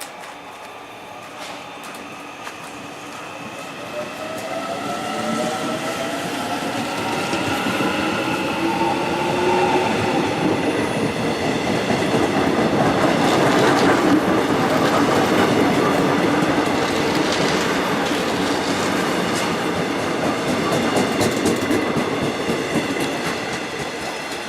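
A train passing through a railway station: it builds steadily in loudness, with a few tones rising in pitch as it approaches, is loudest about halfway through, then fades as it moves away.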